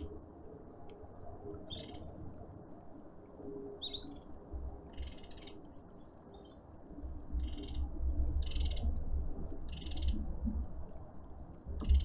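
A bird calling outdoors, with about seven short high-pitched calls at uneven gaps over a low wind rumble. A single sharp knock comes near the end.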